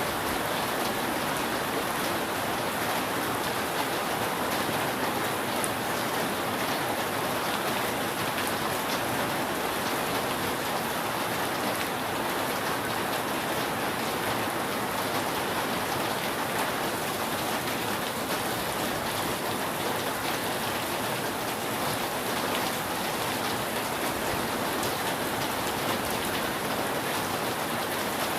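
Steady rain falling on a roof, an even hiss with scattered drop ticks.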